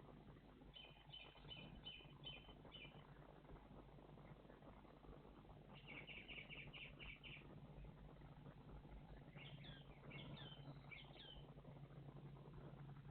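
Faint songbirds calling: two quick runs of short repeated high notes, then a few down-slurred chirps about ten seconds in, over a faint steady low hum.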